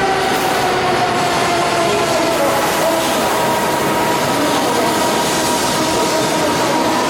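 N700S Kamome Shinkansen train running close by with a loud, steady rush of noise. Over it, the motor whine slowly falls in pitch over the first few seconds, then holds a steady tone.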